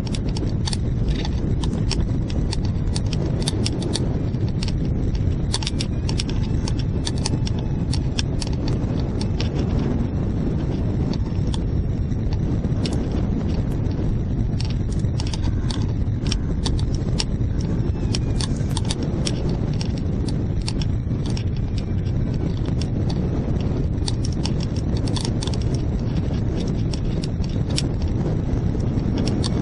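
Strong wind buffeting the microphone, a steady heavy rumble, with irregular sharp clicks and rattles through it.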